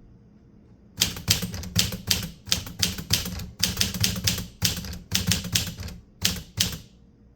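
Typewriter keys being struck in a quick run of keystrokes, about three or four a second with brief gaps. The typing starts about a second in and stops shortly before the end.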